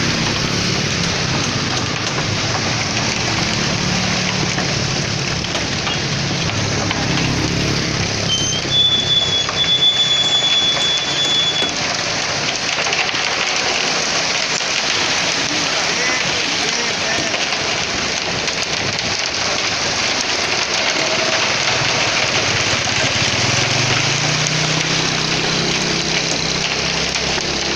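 Concrete mixer truck working a pour: its engine running under a steady rushing, rain-like noise of wet concrete churning and sliding. About a third of the way in a thin high tone sounds for a few seconds, and near the end the engine rises in pitch.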